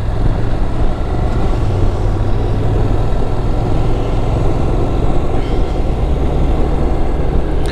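Motorcycle engine and wind noise while riding through curves, a steady low drone with a dense wind hiss over it.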